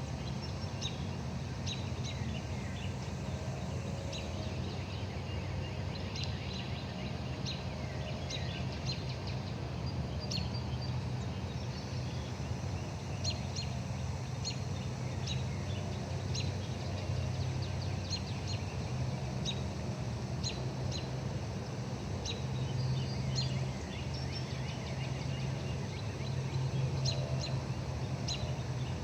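Wild birds calling with many short, sharp high chirps, scattered irregularly throughout, over a steady low hum.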